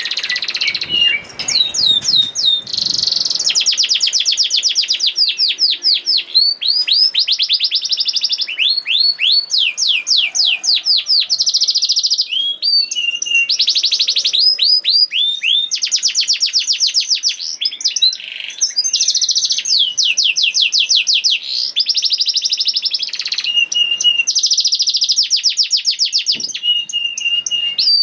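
Canary singing a long continuous song of rapid rolling trills. It runs in fast runs of repeated sweeping notes that switch to a new phrase every second or two, with brief breaks between phrases.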